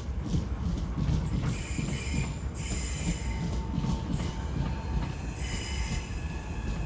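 Class 465 Networker electric multiple unit running slowly into the platform with a low rumble, its wheels screeching in high-pitched squeals that come and go as it brakes.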